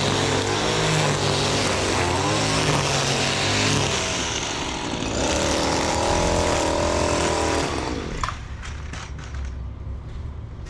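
Stihl FS 94 R two-stroke string trimmer running at high revs, its pitch wavering and dipping as the throttle is worked. About eight seconds in the engine drops away as the throttle is let off, leaving a few light clicks.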